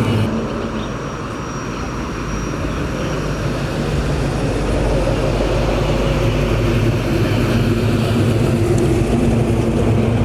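Car engine running at low speed, a steady drone that grows louder from about four seconds in.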